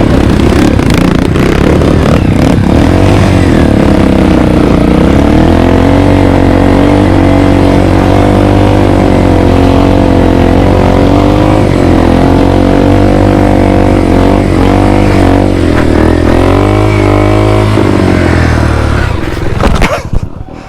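Trail motorcycle engine running loud and close, its pitch rising and falling as the throttle is opened and eased off while riding. The engine note drops away near the end.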